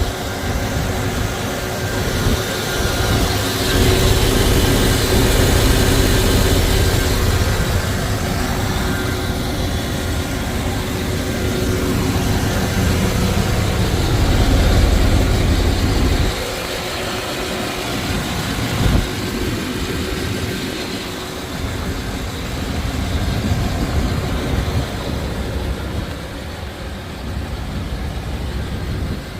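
1994 Chevrolet Blazer's 5.7-litre 350 V8 running steadily, with a low rumble and a wash of noise. The low rumble drops off sharply about sixteen seconds in.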